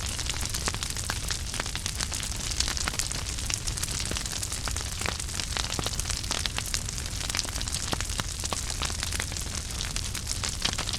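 Wood fire crackling in a fireplace: frequent small sharp pops and snaps over a steady hiss and a low rumble.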